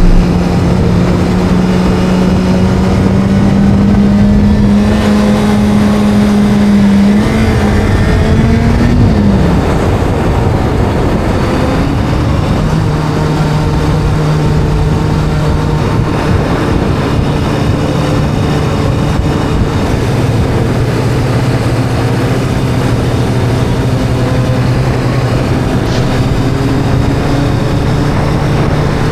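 Video-game motorcycle engine sound, a steady drone. It climbs slowly in pitch, gives a quick rise and fall about nine seconds in, then settles to a lower, even pitch for the rest.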